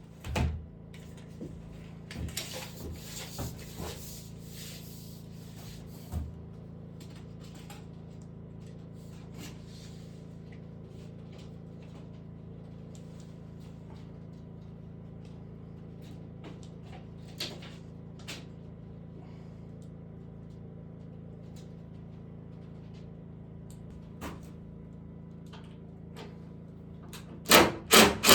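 Woodworking sounds over a steady low hum: a knock, some scraping and rubbing of wood, and another knock. Near the end, a fast run of hammer blows on wood starts, about three a second and much louder than the rest.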